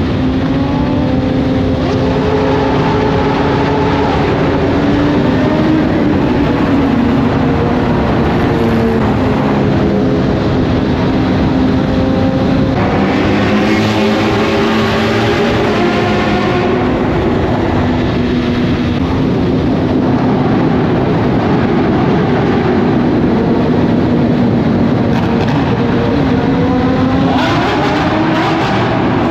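High-performance engines running at speed, their note steady with small shifts in pitch. A louder, rougher stretch comes about halfway through, and the revs rise near the end.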